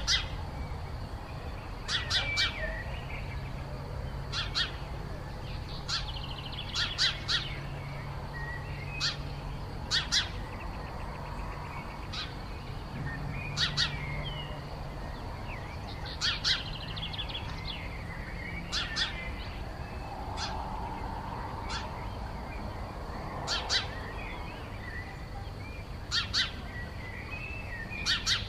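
Birds calling: short, sharp call notes in ones, twos and threes every couple of seconds, with fainter twittering between them.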